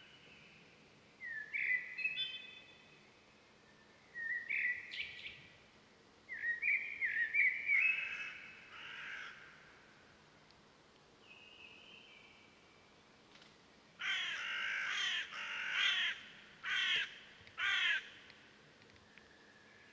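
Wild birds calling: several bursts of chirping, rising whistled notes over the first half, then four harsh, cawing calls in quick succession later on.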